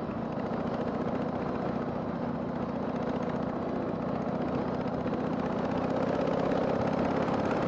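Harley-Davidson Sportster 883's air-cooled V-twin running steadily under way, with a steady rush of wind and road noise on the microphone; it grows a little louder near the end.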